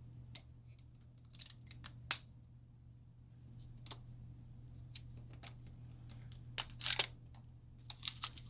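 Scattered clicks, taps and crinkles of hands handling small objects, with the loudest clusters about two seconds in and around seven seconds in, over a steady low hum.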